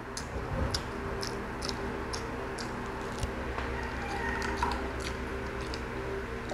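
Close-up chewing of a mouthful of pork chop: short wet mouth clicks and smacks, about two or three a second, over a faint steady hum.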